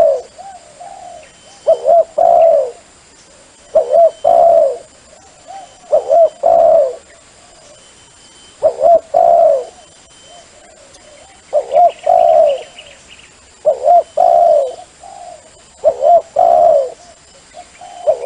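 A dove cooing over and over: a short coo-phrase of about a second, repeated roughly every two seconds, about eight times. It is a decoy call recording used to lure wild doves for trapping.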